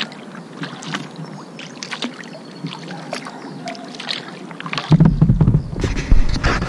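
Kayak paddling: small splashes and drips of water from the paddle strokes. About five seconds in, a much louder low rumbling noise takes over.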